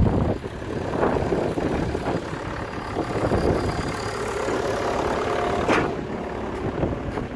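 Compact construction machine's diesel engine running steadily, with several short knocks and scrapes over it, the loudest about six seconds in.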